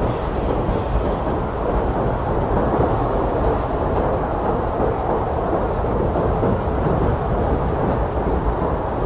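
Blizzard wind blowing hard and steadily: a dense, low rushing noise with an even level and no single gust standing out.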